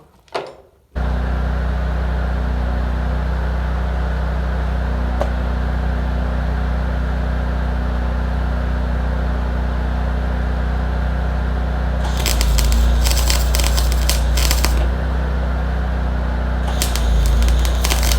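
1972 Chevrolet Suburban engine running through a homemade exhaust pipe made of horse bones. It starts abruptly and runs steadily, then twice grows louder with a dense crackling rattle.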